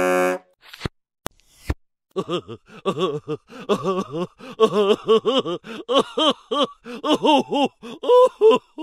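Comedy sound effect of a voice babbling nonsense in quick syllables that rise and fall in pitch, about four a second, for several seconds. It is preceded by a brief buzz and a few sharp clicks.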